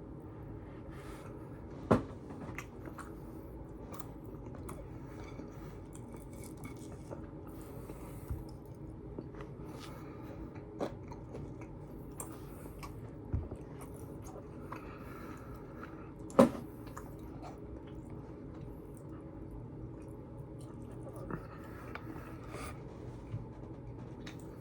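A person chewing food close to the microphone, with scattered small clicks and mouth sounds over a steady low hum. Two sharp knocks, about two seconds in and about sixteen seconds in, are the loudest sounds.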